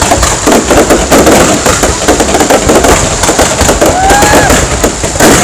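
Aerial fireworks firing in rapid succession, a loud, dense and continuous crackling and popping with no break. A short rising-and-falling whistle-like tone comes through about four seconds in.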